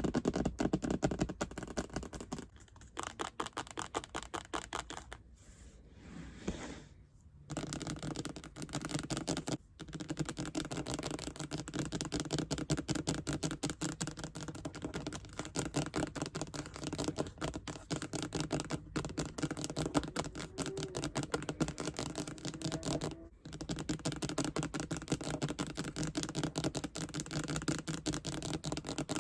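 Fast ASMR tapping: a rapid, continuous stream of light taps, broken by a few short pauses.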